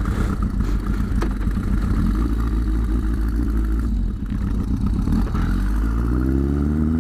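Yamaha XS1100 motorcycle's inline-four engine running as the bike gets under way. The revs rise in the last second or so as it accelerates.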